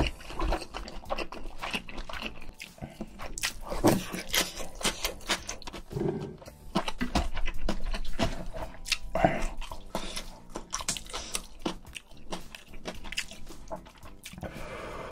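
Close-miked eating sounds: chewing mouthfuls of fried rice and spicy seafood noodle soup (jjamppong), with many short, irregular mouth clicks and smacks.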